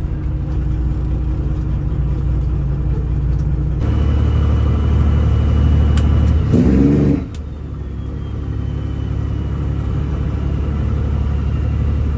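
Semi truck's diesel engine running under way with a steady low rumble. It grows louder about four seconds in, climbs briefly in pitch around six and a half seconds, then drops back.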